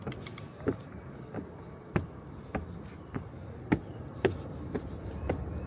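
Footsteps climbing a long flight of stairs, an even tread of about ten steps, a little under two a second.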